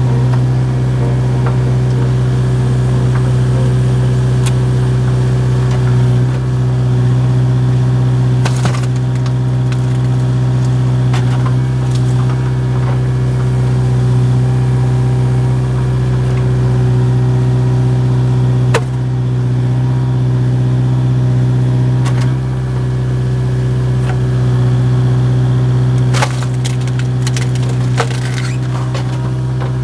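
Excavator diesel engine running steadily while big log rounds are split, with several sharp cracks of wood splitting and splintering spread through.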